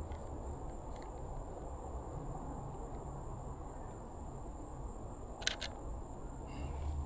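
Camera shutter from a Canon EOS RP, a quick sharp double click about five and a half seconds in. Under it is a steady low outdoor rumble and a faint thin high tone.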